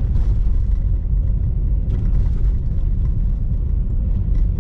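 Steady low road rumble inside a moving car's cabin, driving on snow-covered streets, with faint hiss from the tyres now and then.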